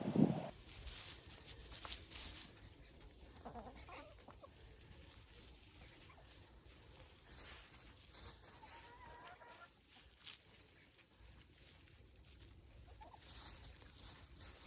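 Chickens clucking quietly now and then, with faint scattered clicks and scratches. A brief louder sound comes right at the start.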